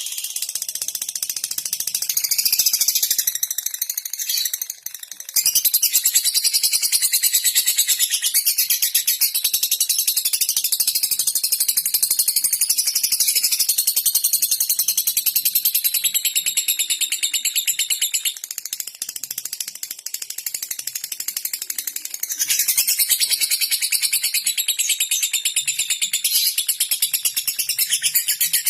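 Lovebird chattering in a long unbroken run of very rapid, high ticking notes, the 'ngetik' call used to lure other lovebirds. It breaks off briefly a few seconds in, then goes on.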